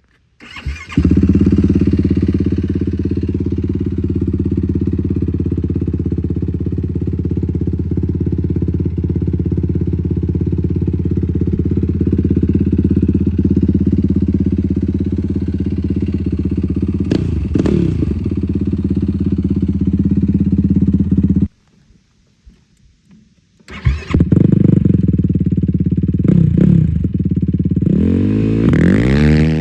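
Yamaha YFZ450R sport quad's single-cylinder four-stroke engine idling steadily, revved once about two-thirds of the way in. After a brief break it idles again and is revved a few more times near the end.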